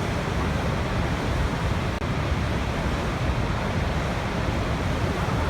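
Waterfall rushing steadily: an unbroken, even roar of falling water, heaviest in the low end.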